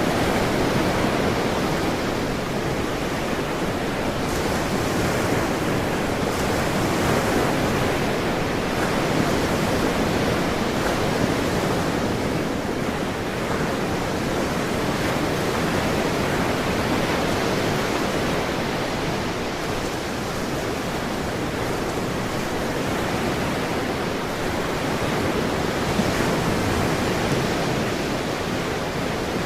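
Ocean surf, a steady wash of waves with slow, gentle swells in loudness.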